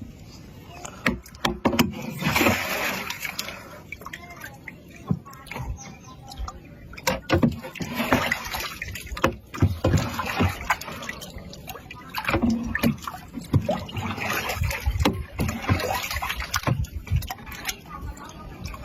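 Water splashing and sloshing against a small boat, in several bouts, with scattered knocks and clicks.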